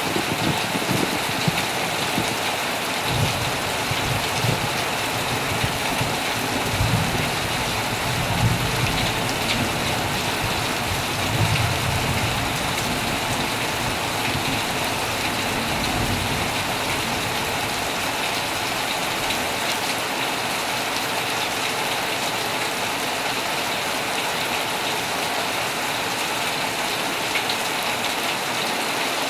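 Heavy rain falling steadily on a tent, a dense, even patter. A low, uneven rumble sits under it during roughly the first twelve seconds, then fades.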